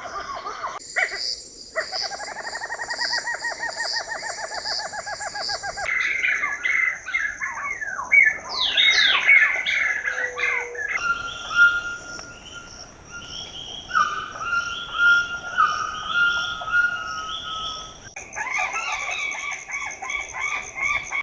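Rainforest birds calling in a series of different songs that change abruptly: first a long rapid trill, then falling whistles, then repeated short whistled notes, then a busy chorus near the end.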